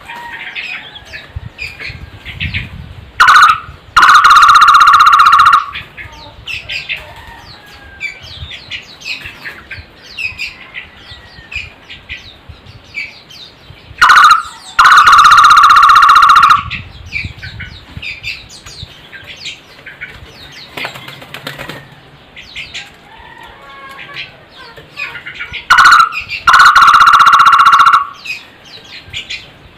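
A bird's loud two-part call, a short note then a longer held one, given three times about eleven seconds apart, over many faint chirps of smaller birds.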